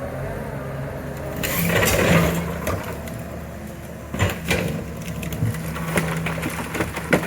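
Excavator engine running steadily while the machine pushes and crushes a junked car body. There is a loud surge of crunching sheet metal about a second and a half in, then several sharp metal knocks and cracks.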